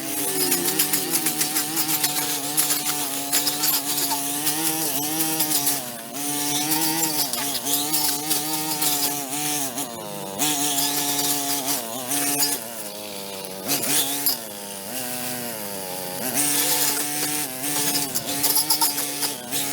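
A small petrol engine on a handheld power tool runs at high speed, its pitch sagging and recovering again and again as it takes load, with a gritty high rasp over it.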